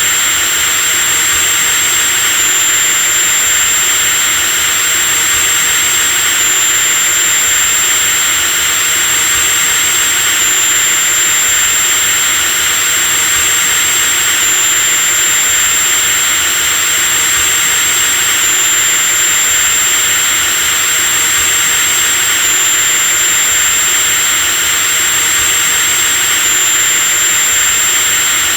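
Electric drill running continuously at high speed: a steady high-pitched whine over a hiss, with no change in speed.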